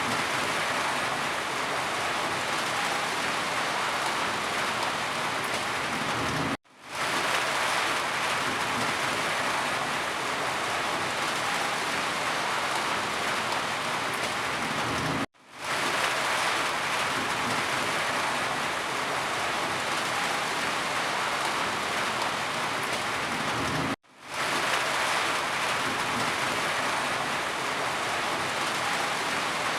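Steady rain falling, an even hiss of drops. Three times the sound cuts out for a split second and fades straight back in.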